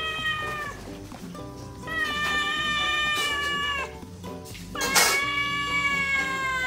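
A cat yowls in long, drawn-out, slightly falling cries, three of them, during a scuffle between two cats. The last cry starts with a sharp noisy burst. Background music plays underneath.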